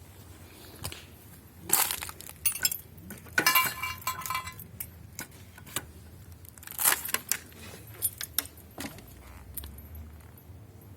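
Hard metal pieces clinking and clanking as scrap is handled, in scattered knocks. One clink a little over three seconds in rings on briefly.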